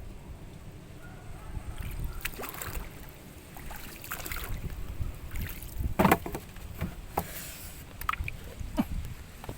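Steady low rumble of wind on the microphone, with a scattering of short knocks and clatters; the loudest knock comes about six seconds in.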